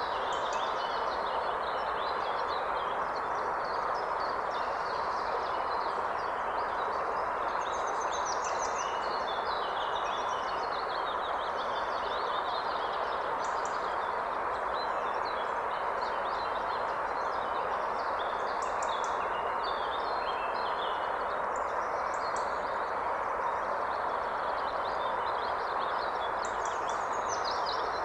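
A forest river rushing steadily, with several songbirds chirping and trilling over it throughout.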